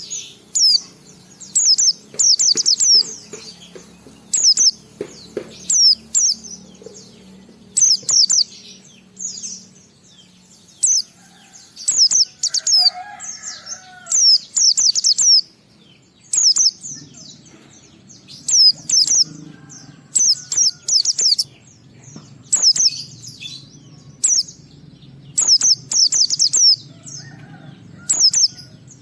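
White-eye (pleci) singing in full song: clusters of quick, high, twittering notes, repeated about every second with short gaps, over a faint low hum.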